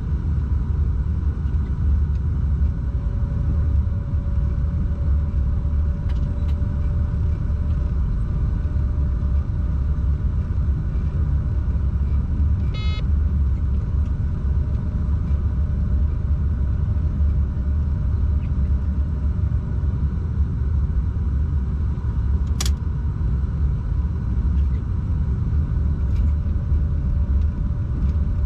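Locomotive cab on a moving freight train: a steady low rumble of the train running along the track, with a faint steady hum. A short electronic beep sounds once about halfway through, and a single sharp click comes a few seconds before the end.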